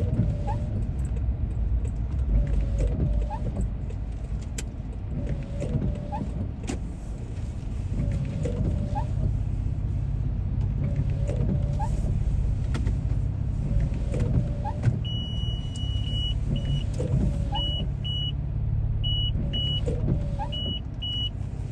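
Inside a moving car: steady engine and road rumble, with the windshield wipers sweeping across the glass about every two and a half seconds, each sweep a short squeak. From about two-thirds of the way in, a high electronic beep sounds on and off.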